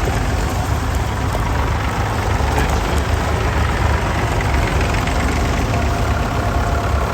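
Tractor engine running steadily with a heavy low rumble.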